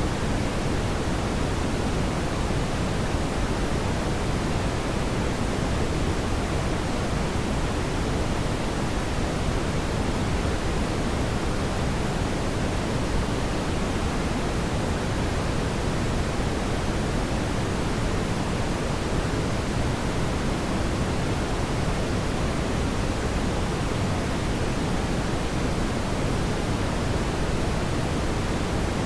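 Steady, even rushing noise, heaviest in the low end and tapering toward the highs, with no audible crackles or pops.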